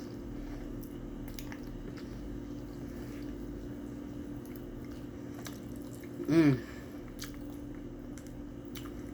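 Close-up mouth sounds of someone eating baked spaghetti: soft chewing and squishing with small wet clicks, over a steady low hum. About six seconds in comes one short, loud voiced sound falling in pitch, like an "mm".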